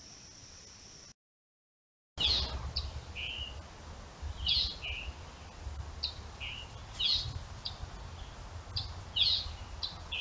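Wild songbird calls: short, sharp descending notes, repeated every second or so, with lower, shorter notes between them, over a low rumble. Before these, for about the first second, a steady high-pitched insect chorus runs, then cuts off into a second of silence.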